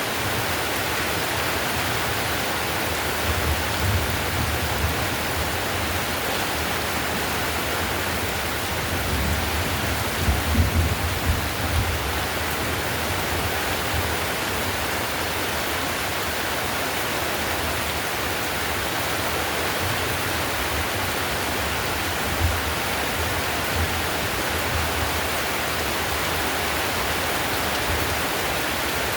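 Heavy rain falling steadily on a clay-tiled roof: an even, unbroken hiss, with a few brief low thuds, the strongest about ten seconds in.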